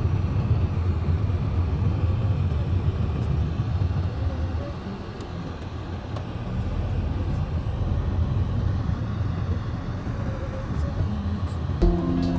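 A steady low rumble of vehicle noise with no speech. Music starts right at the end.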